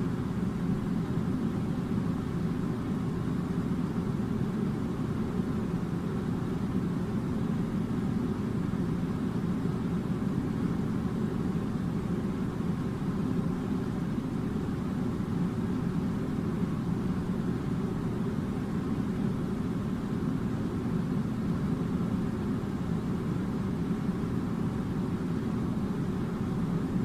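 A steady, unchanging low rumble.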